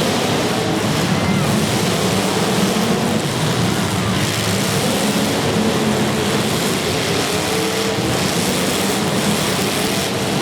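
Many demolition derby car engines running and revving together, a loud, steady din with engine pitches wavering up and down.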